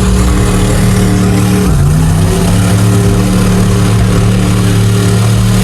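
Mega truck's big engine running hard under load, loud and steady, its pitch dropping briefly about two seconds in and then climbing back.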